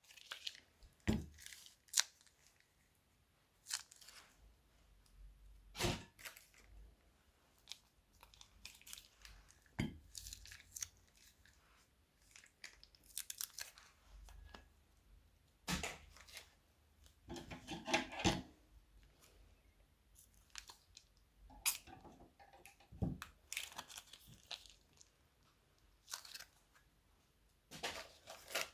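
Crunchy slime being worked by hand: irregular crackling, crinkling and sharp pops, some in quick clusters.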